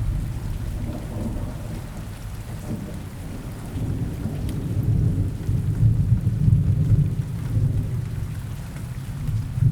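Steady rain falling in a forest, with low rolling thunder that swells in the middle and then eases off.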